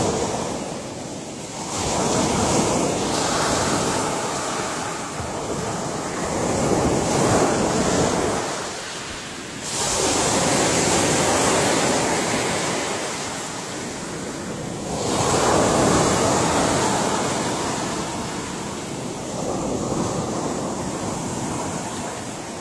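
Ocean waves breaking and washing on a shore, surging and easing every few seconds, with wind noise on the microphone.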